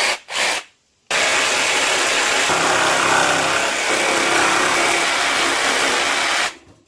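A few short knocks, then a Craftsman cordless jigsaw, fitted with a Milwaukee M18 battery through an adapter, runs for about five seconds cutting a countertop offcut, and stops suddenly.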